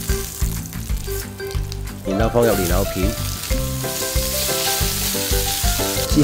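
Ginger and garlic sizzling in oil in a wok, stirred and scraped with a spatula. About two and a half seconds in, lotus root slices go into the hot oil and the sizzle grows louder.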